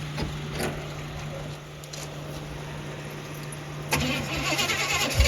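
Starter cranking a freshly swapped-in 350 small-block V8 on a weak battery for a first start, beginning about four seconds in after a steady low hum.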